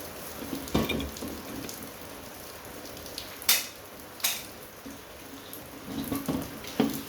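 Hand work on scrap parts: a few dull knocks, then two sharp clicks about a second apart in the middle, and more knocks near the end, over a steady hiss.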